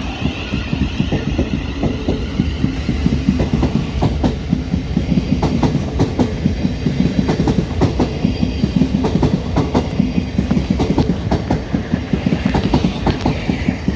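A train running through the station, its wheels clattering steadily over rail joints and points, with a dense low rumble. A high whine fades out in the first second or so.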